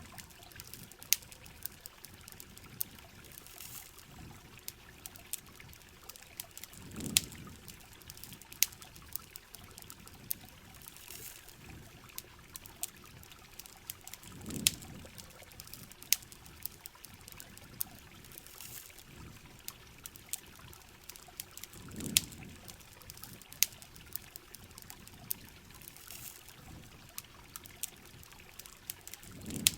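Steady rain with a campfire crackling: frequent sharp pops over an even patter. A low swell of trickling, pouring water comes back about every seven and a half seconds.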